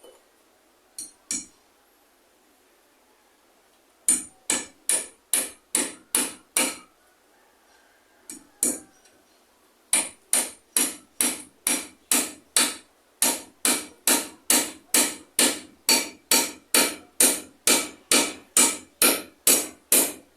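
A hammer striking repeatedly at a steady pace of about two to three blows a second, in runs separated by short pauses, with a few single blows near the start.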